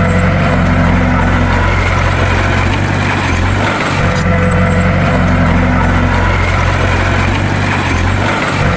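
Bulldozer's diesel engine running steadily under load, with a brief dip in its sound about four seconds in and again near the end.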